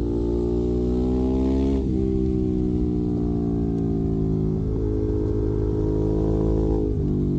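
Ducati Monster 821's 821 cc V-twin engine running through a Termignoni exhaust. It holds a steady note with abrupt changes in pitch about three times, near 2, 4.5 and 7 seconds in.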